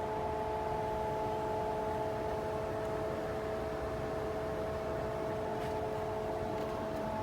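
Steady road and tyre noise inside the cabin of a moving 2019 BMW X5 diesel, a low rumble with a faint, even hum of three steady tones.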